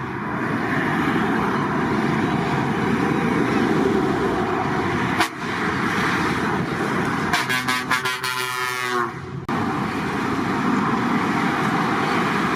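Heavy trucks running past, with a steady engine and traffic noise throughout. About seven seconds in, a truck horn blows for about two seconds, then cuts off suddenly.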